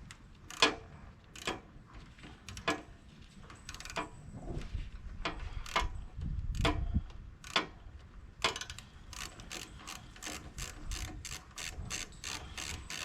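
Ratchet wrench clicking as it is swung back and forth, the clicks scattered at first and then about four a second over the last few seconds. The socket is the wrong size for the new solenoid's 1/2-inch nuts, so the ratchet isn't turning them and feels funky.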